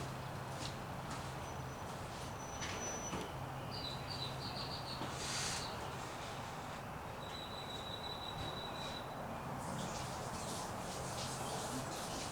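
Birds chirping with short high whistled notes, over a steady low hum and a few faint clicks.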